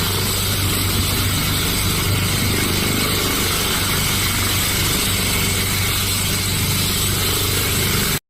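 A helicopter running steadily, its engine and rotor making a constant hum with a thin high whine over it. It cuts off suddenly near the end.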